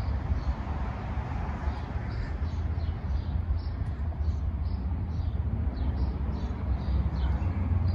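Small birds chirping repeatedly, short high chirps about two or three a second, over a steady low rumble.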